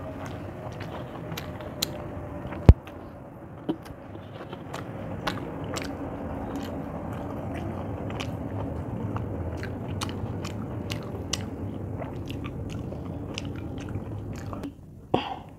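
Close-up chewing of rice eaten by hand, with soft clicks of fingers mixing food on a metal plate and a sharp click about three seconds in.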